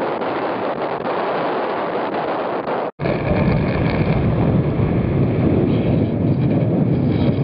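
Wind blowing across the microphone and water rushing past a sailing yacht under way at sea. The sound cuts off abruptly about three seconds in, and the noise that follows is deeper and heavier.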